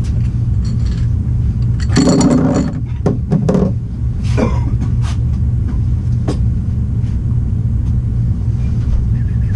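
A steady low hum underneath a cluster of metallic clanks and knocks about two seconds in, from copper pipe and tools being handled, followed by a few single sharp clicks.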